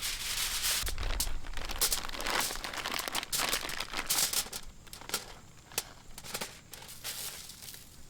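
Cheap, thin aluminium foil crinkling as it is handled, a run of irregular rustles that thin out after about five seconds.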